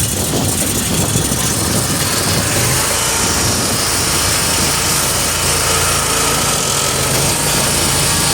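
Petrol engine of a pressure washer running steadily just after being started with the choke on; its low hum grows steadier and stronger about five seconds in.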